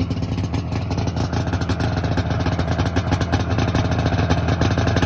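Yamaha V-Max 600 snowmobile's two-stroke engine running steadily at idle as it warms up after a cold start, having sat unused for a long time.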